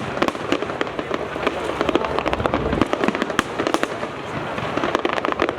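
Fireworks display: many shells bursting in quick succession, a dense run of sharp bangs and crackles several times a second. A heavier low boom comes about halfway through.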